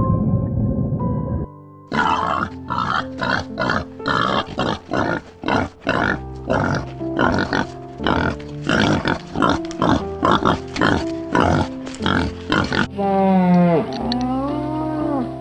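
An animal grunting in rapid short calls, about two or three a second, over background music with steady tones. Near the end it cuts to a different animal giving a long call that dips and then rises in pitch.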